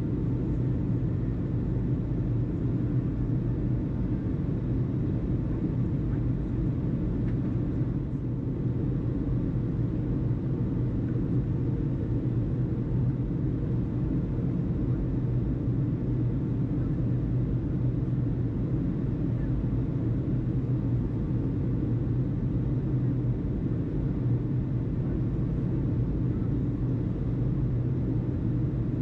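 Steady low background rumble with a constant hum, unbroken between radio transmissions.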